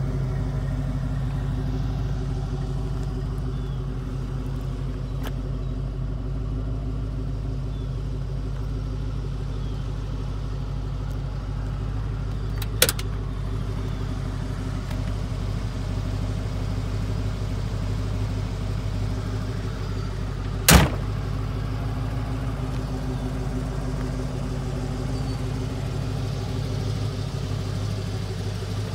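1988 Ford Mustang GT's 5.0-litre V8 idling steadily. Two sharp knocks cut in, one about halfway through and a louder one some eight seconds later.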